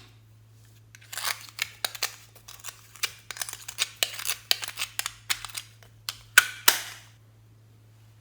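Glossy slime being pressed and squished by hand, making a quick run of wet clicks and pops, with two sharper snaps near the end.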